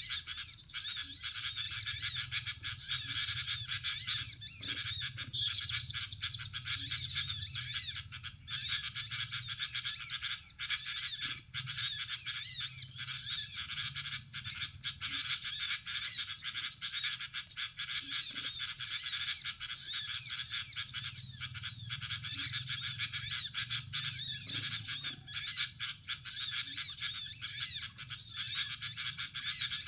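Small birds chirping and twittering: dense, overlapping high-pitched chirps that go on without a break.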